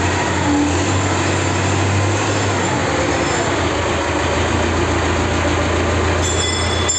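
An engine running steadily with a deep, even hum, on its first run after a repair.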